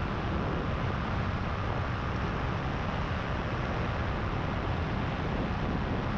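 Paramotor engine and propeller running steadily in flight, a constant drone under a rush of wind on the microphone. The propeller has been repaired and rebalanced with added weights.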